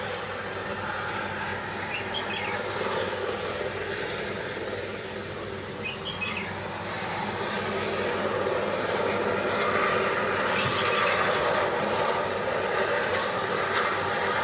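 Steady engine and motion noise of a vehicle under way, getting louder in the second half, with a few faint short chirps about two and six seconds in.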